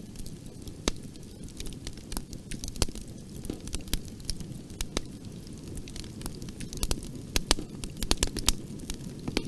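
Wood fire crackling in a fireplace: a steady low rumble of flames under irregular sharp pops and snaps, with a busier run of pops near the end.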